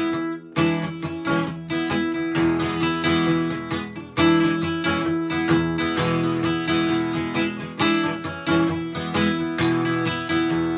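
Acoustic guitar strummed in a steady rhythm, an instrumental break in a folk-style song, with a brief pause just after the start.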